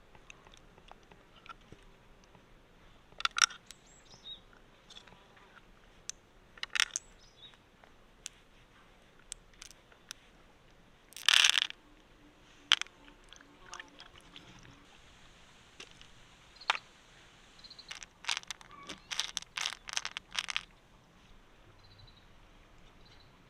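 Scattered sharp clicks and crunches of hard objects being handled, the loudest a crunch about a second long some eleven seconds in, and a quick run of clicks near the end.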